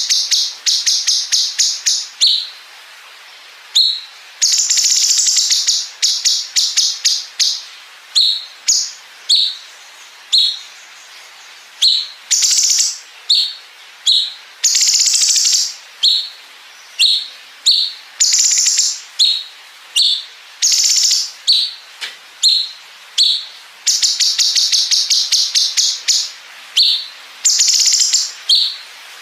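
Cucak cungkok songbird singing loud, high-pitched song: long rattling trills of rapid notes, about ten a second, machine-gun-like 'bren' phrases, alternating with short single chirps.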